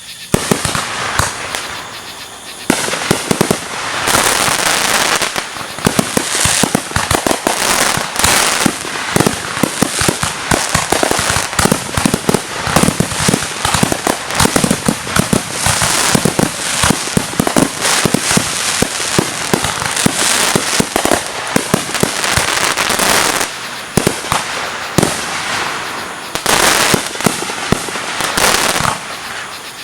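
Fireworks going off in a dense barrage, a rapid, continuous stream of sharp bangs and crackles, many per second, with only brief lulls.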